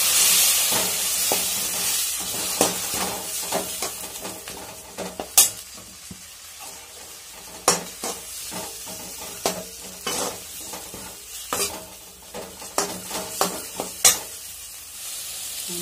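Chopped tomatoes, onions and green chillies sizzling in hot oil in a metal kadai while a metal spoon stirs and scrapes them, with sharp clinks of the spoon against the pan every second or two. The sizzle is loudest at the start and dies down over the first few seconds.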